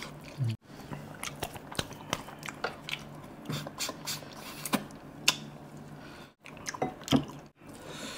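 Close-miked eating: a curried chicken leg bitten and chewed with wet, smacking mouth sounds and many sharp clicks. Near the end, fingers squish through rice and curry. The sound cuts out briefly three times.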